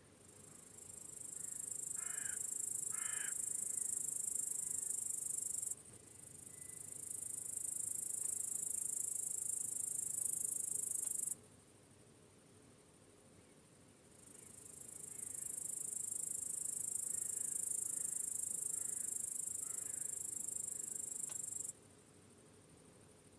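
Meadow crickets chirping in a continuous, very high-pitched trill that comes in three long stretches, each swelling in over a second or two and cutting off suddenly, with short quieter gaps between. Two faint short calls are heard about two seconds in.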